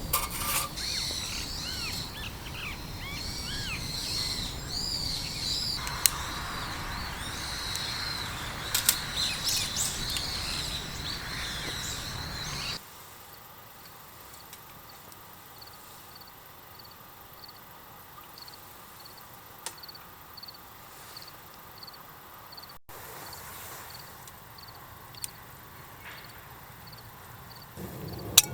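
Small wild birds chirping and twittering over a steady outdoor hiss. About halfway through the sound cuts to a quieter background, where a faint high peep repeats about three times every two seconds.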